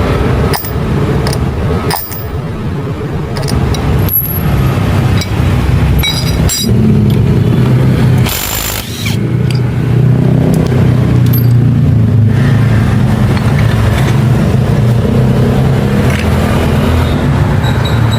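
A motor vehicle's engine running steadily, with a low hum that shifts slightly in pitch. Occasional sharp clicks and knocks sound over it.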